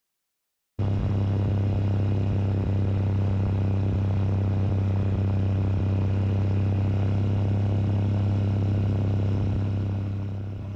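Steady drone of a Tecnam Sierra light sport airplane's Rotax 912 four-cylinder engine and propeller in level flight, heard inside the cabin as a deep, even hum. It starts abruptly about a second in and eases slightly near the end.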